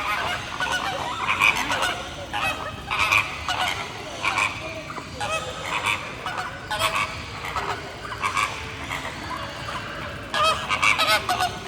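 Birds calling over and over, short loud calls every second or two, coming thickest near the end.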